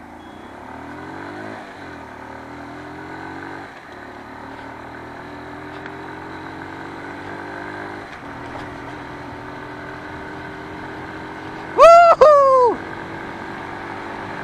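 Small motorcycle engine accelerating hard from a standing start in a drag race. Its pitch climbs, drops sharply at gear changes about two and four seconds in, then climbs slowly and holds near steady, with wind and road noise. A loud, short voice call comes twice near the end.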